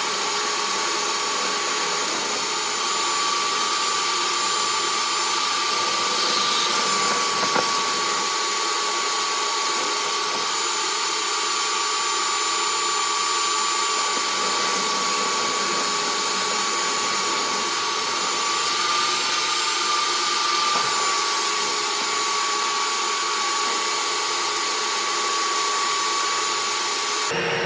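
A motor running steadily with rushing air, likely from the dryer vent cleaning equipment, with a high whine that wobbles slightly in pitch. The sound changes abruptly just before the end.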